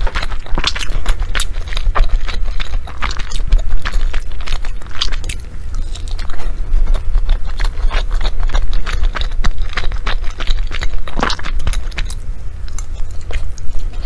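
Close-miked chewing of sticky glutinous rice dumpling, heard as an irregular stream of wet mouth clicks and smacks over a steady low hum. Wooden chopsticks scrape and tap in the tray.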